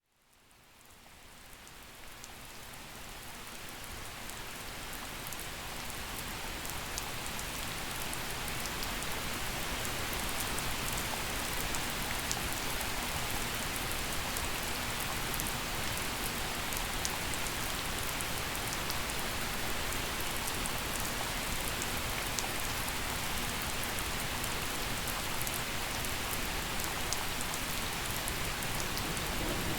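Gentle rain falling steadily, an even hiss with scattered drop ticks, fading in over the first few seconds.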